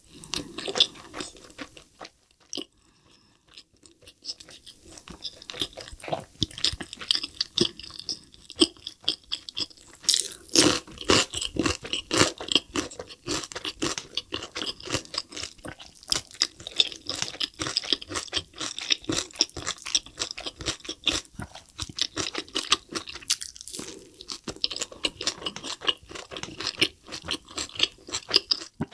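Close-miked ASMR chewing of a McDonald's double cheeseburger: wet mouth sounds with many small crunches, easing off briefly about two seconds in.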